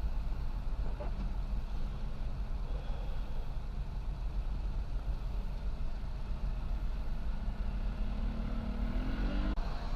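A motor vehicle's engine running with steady road rumble; about eight seconds in the engine note rises for a second or two as it accelerates.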